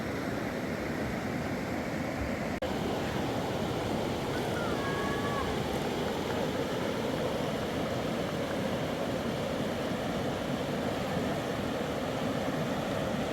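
Steady rush of fast-flowing floodwater in a river, cutting out for an instant once about two and a half seconds in.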